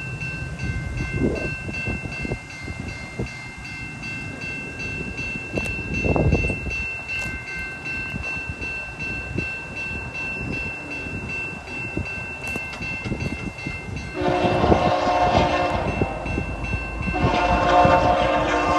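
A VIA Rail F40PH locomotive approaches with a low rumble, then sounds its K3LL air horn in two long chord blasts, the first about 14 seconds in and the second about 17 seconds in.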